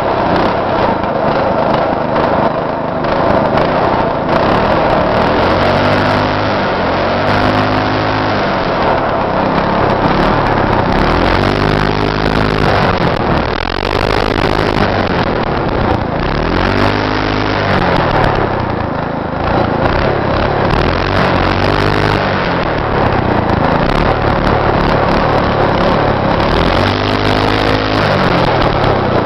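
Go-kart's 6.5 hp Powerhorse single-cylinder four-stroke engine running hard, its pitch rising and falling again and again as the throttle is opened and eased off.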